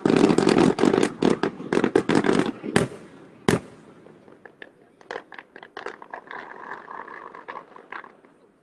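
Aerial fireworks: a sharp bang, then dense crackling for about two and a half seconds. Two more loud bangs follow, then scattered fainter crackles.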